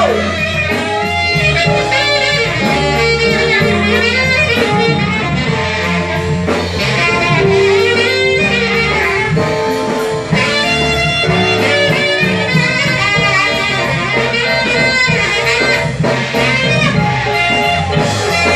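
Live band playing an instrumental jazz-blues passage, with guitar, saxophone and drum kit.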